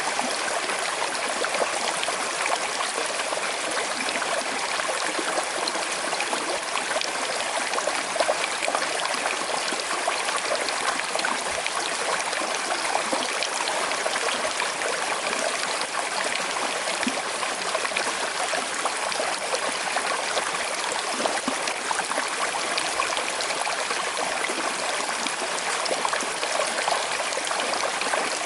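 Small river flowing over stones, a steady rush of water with fine trickling.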